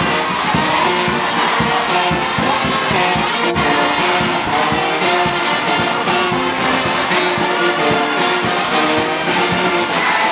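Brass band playing a march tune in held, stepping notes over a steady hiss of heavy rain.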